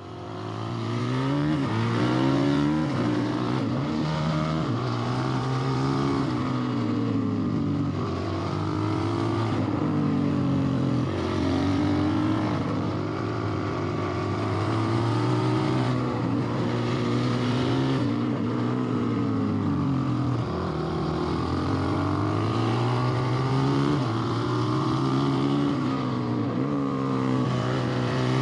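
Engine of a working machine running steadily, its pitch rising and falling every few seconds as the revs and load change.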